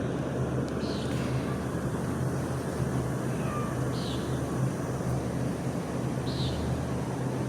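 Garbage truck's diesel engine running with a steady low hum, joined by three short high chirps; no dumpster banging.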